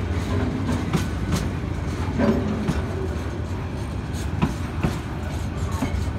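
Oil tank wagons of a freight train rolling past: a steady low rumble of steel wheels on the rails, with scattered sharp clacks as the wheels cross rail joints.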